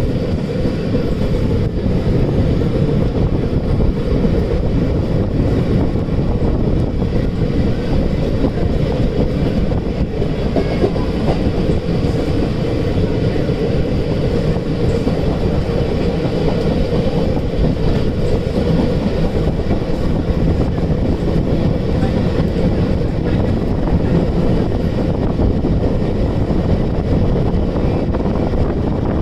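Passenger train running along the track, heard from inside the coach: a steady, unbroken rumble of wheels on rails.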